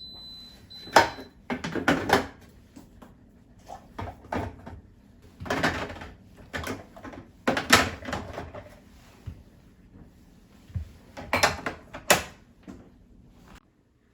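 Refrigerator shelves and bins being handled during cleaning: a run of sharp knocks, clatters and rattles of hard plastic and glass being moved, set down and slid in. A thin high tone sounds through the first second.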